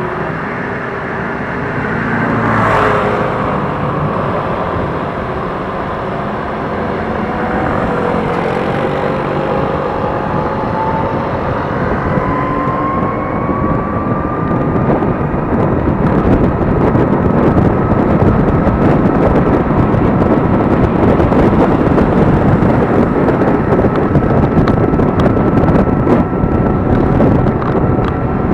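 Electric scooter ridden on the road: the motor's thin whine climbs in pitch as it speeds up and then holds steady at cruising speed. Wind noise on the microphone grows heavier as the speed rises, and another vehicle swells past about three seconds in.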